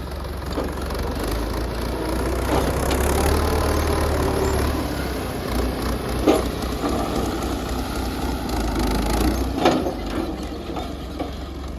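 Belarus tractor engine running with a steady low hum that swells for a few seconds, with two sharp clanks, about six and nine and a half seconds in, as the loudest moments.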